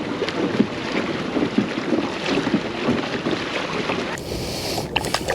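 Wind buffeting the microphone out on open water from a kayak, with scattered small knocks. The sound changes abruptly about four seconds in.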